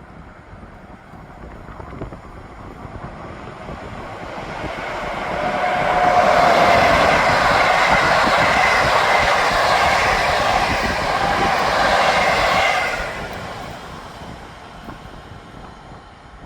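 A train passing by: it grows louder over several seconds, runs at full loudness for about seven seconds, then fades away.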